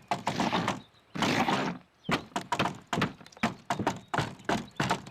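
Two short rushes of hissy noise, then a quick, irregular run of thuds and knocks from about two seconds in.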